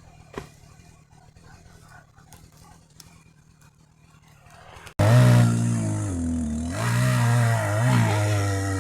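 Quiet with a single light tap, then about five seconds in an abrupt cut to a loud chainsaw engine running, its pitch dipping and rising as the saw is loaded and revved.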